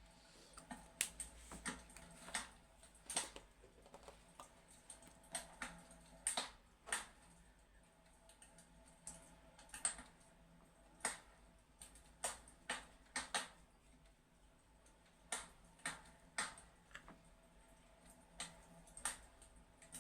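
Fireplace crackling: irregular sharp pops and snaps, sometimes several close together, over a faint steady hum.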